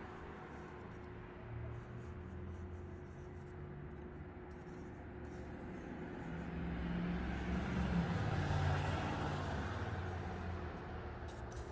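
Graphite pencil scratching over paper while a landscape sketch is drawn. Under it a low steady hum, and a low rumble that swells about halfway through and fades again.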